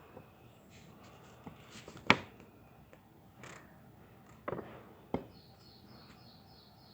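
Quiet room with a few sharp clicks or knocks, the loudest about two seconds in. Near the end comes a quick run of short, high chirps or ticks.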